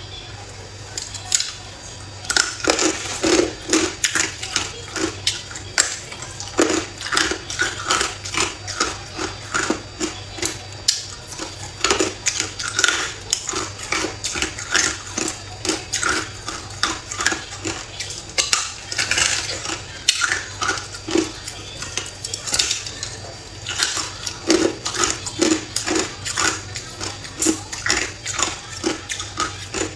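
Hard ice chunks clinking and clattering against a cup or bowl, many quick irregular clicks throughout, over a faint steady hum.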